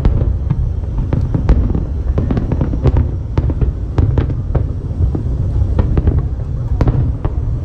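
Fireworks display: a rapid, continuous series of bangs and crackling bursts, several a second, over a steady deep rumble.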